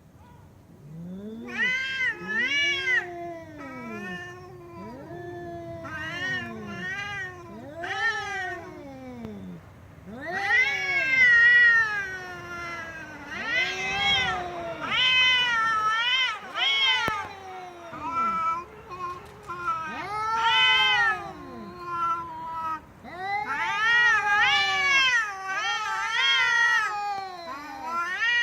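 Cat meowing over and over, a long string of drawn-out calls that each rise and then fall in pitch, some louder and more yowling than others.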